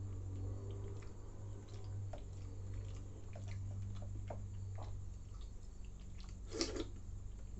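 Wet chewing and small mouth clicks of someone eating chuda soaked in milk, over a steady low hum, with one louder sharp click near the end.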